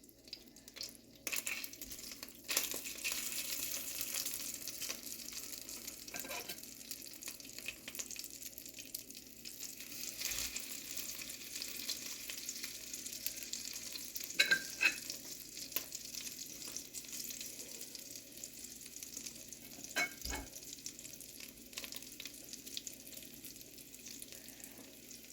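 Chicken tenderloins sizzling as they fry in a hot pan, the hiss swelling about a second and a half in as the pieces go in. A few short clicks and knocks of utensils against the pan.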